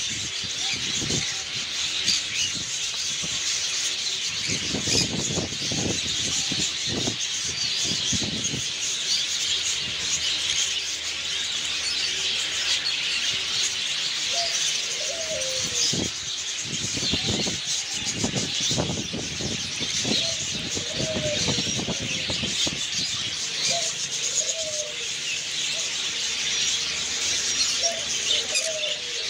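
A flock of caged pet birds chirping and twittering together, a dense, continuous high chatter of many birds at once. Now and then lower calls stand out, with patches of low rumbling noise underneath.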